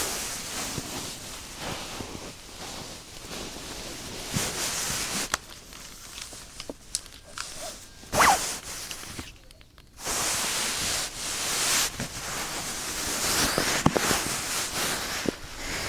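Close rustling and rubbing on a binaural microphone's ears, with a few sharp clicks: the silicone ears being squeezed and rubbed. It breaks off briefly a little before ten seconds in, then carries on.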